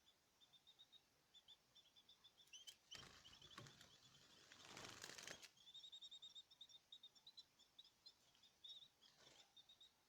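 Small caged songbirds giving quick, repeated high chirps, faint, with a couple of seconds of rustling noise near the middle.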